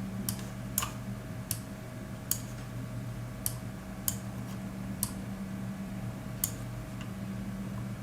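Seagate Exos X22 22TB hard drive working during a file copy: sharp, irregularly spaced ticks of the read/write heads seeking, about eight of them, over a steady low hum.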